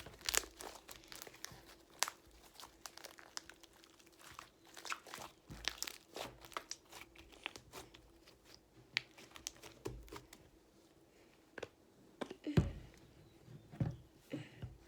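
Slime being mixed and worked with foaming hand soap, giving a run of irregular wet crackles, pops and squishes as air pockets burst.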